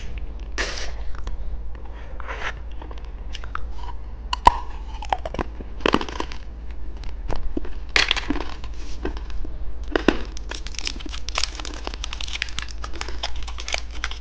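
Plastic candy wrapper crinkling and tearing as it is opened by hand, with irregular crackles and a sharp snap about four and a half seconds in.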